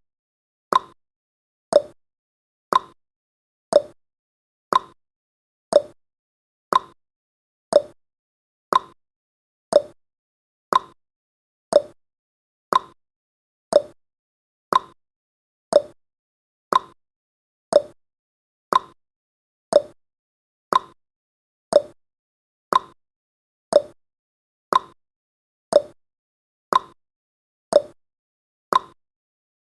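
Clock-ticking sound effect of a countdown timer: one short, sharp tick each second, evenly spaced.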